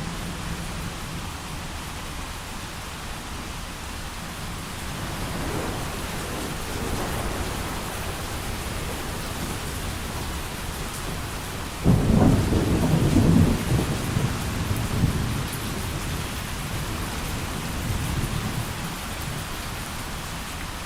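Steady rain with a thunderstorm: a faint roll of distant thunder about five seconds in, then a sudden, louder thunderclap about twelve seconds in that rumbles on for several seconds before fading back into the rain.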